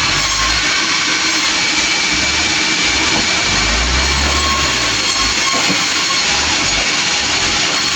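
Sawmill running: a loud, steady noise of the saw and its drive, with faint, steady high tones over it.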